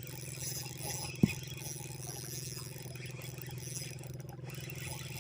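A steady, low engine hum with a fast even pulse, and one sharp click about a second in.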